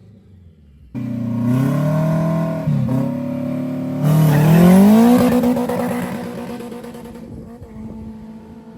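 Race car accelerating hard from about a second in, its engine climbing in pitch and dropping back twice as it shifts gears. It then fades steadily as the car pulls away down the strip.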